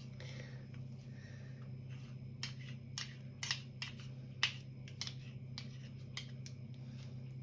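About a dozen light, sharp clicks and taps of kitchen utensils, such as a spoon against a bowl or muffin tin, at an uneven pace while batter is portioned into muffin cups, over a steady low hum.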